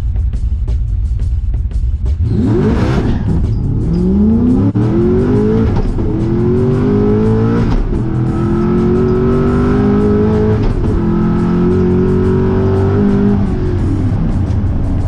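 Car engine launching and accelerating hard, its revs climbing and dropping back with each of about three upshifts of a manual gearbox, then holding high before the throttle comes off near the end.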